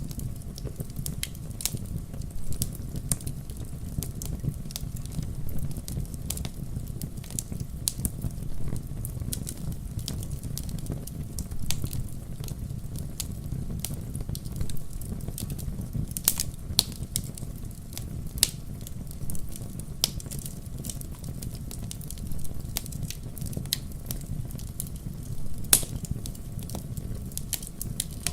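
Wood fire burning in a fireplace: a steady low rumble of flames with irregular crackles and pops throughout, a few sharper pops standing out about 16 seconds in and again near the end.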